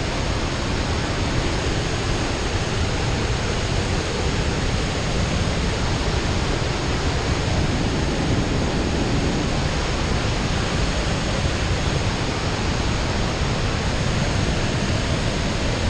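Steady rushing of a waterfall and river rapids, an even noise of falling water that neither rises nor falls.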